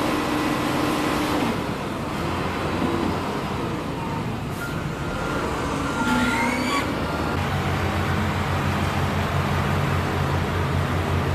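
Heavy diesel machinery running with steady mechanical noise. A brief rising whine comes just after halfway, and a strong, low, pulsing engine note sets in about two-thirds of the way through.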